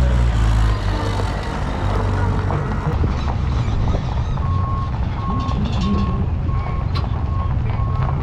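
A heavy vehicle's engine running nearby, with a reversing alarm starting about halfway through and beeping steadily, about one and a half beeps a second.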